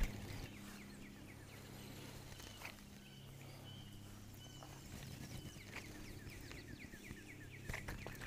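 A bird chirps faintly in quick runs of short, falling high notes over a quiet outdoor background. A single knock sounds right at the start.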